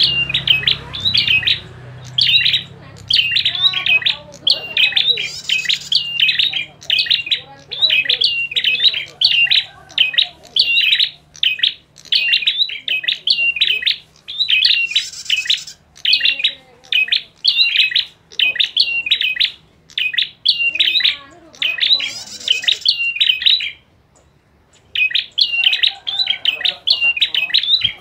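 Prinias (prenjak) calling in a fast, busy run of sharp, repeated chirps: an agitated 'fighting' lure call of the kind played to stir captive prinias to sing. There is a short pause about three-quarters of the way through.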